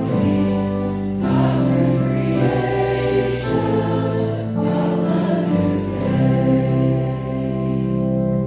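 A group of voices singing a hymn together with sustained instrumental accompaniment, chords held and changing every second or two.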